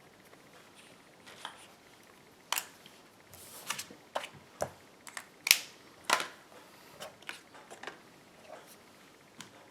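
A string of light clicks, taps and brief paper rustles, loudest about halfway through, from card-making supplies being handled on a desk: clear stamp, ink pad and cardstock.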